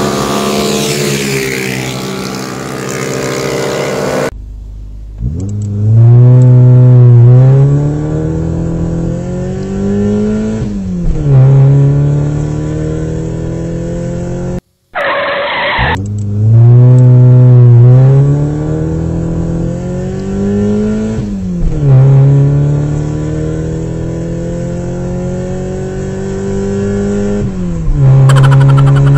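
Car engine accelerating through the gears: its pitch climbs, drops at each shift and climbs again. The same run of shifts plays twice, with a brief burst of noise between the two runs.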